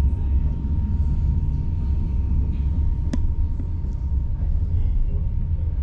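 Steady low rumble of an ICRm passenger coach rolling along the track, heard from inside, with a faint steady whine. A single sharp click about three seconds in.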